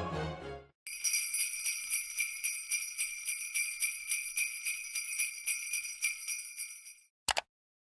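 Jingle bells (sleigh bells) shaken in a steady rhythm, bright metallic ringing, then stopping.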